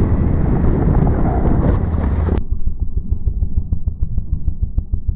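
Loud, rough vehicle noise picked up by an onboard camera on a pit bike or kart. About two and a half seconds in it cuts off abruptly to a muffled, fast, regular low thumping.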